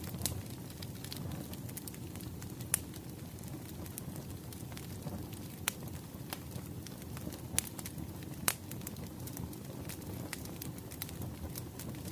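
Wood fire burning: a steady low rush with scattered sharp crackles and pops, a few louder snaps through the stretch.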